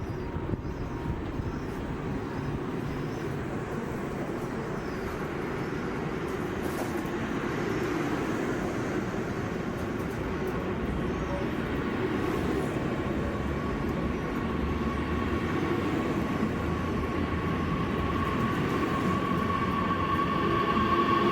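A train approaching through the station, its running noise growing steadily louder, with a steady high tone coming in toward the end.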